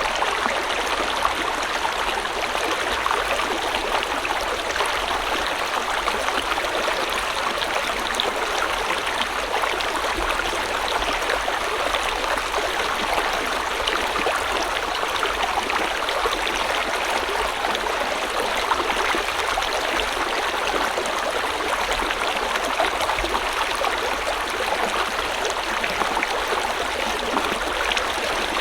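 River water flowing steadily over stones, a continuous rushing with fine gurgling and splashing texture.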